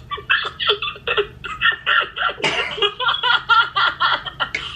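A person laughing hard, in rapid repeated bursts of about four or five a second.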